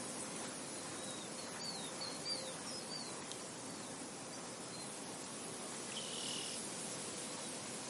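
Soft steady wind across a field, with a bird giving a quick run of short falling chirps about two seconds in and a brief buzzy call at about six seconds.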